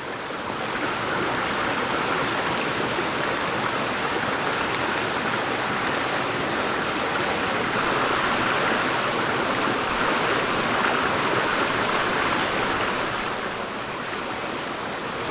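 Mountain stream water rushing steadily over rocks, a continuous hiss that is strongest in the middle of its range.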